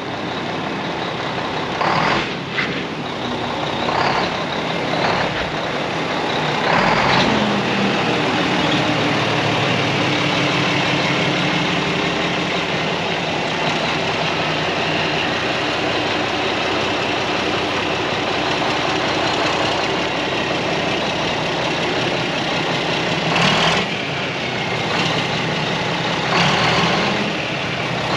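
Heavy truck's Mack diesel engine running steadily, getting louder about seven seconds in, with a few short louder bursts near the start and again near the end.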